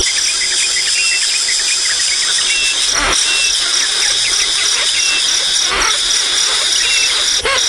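Many quick, high-pitched chirps from young birds over a steady, high insect-like buzz, with a few short knocks about three, six and seven and a half seconds in.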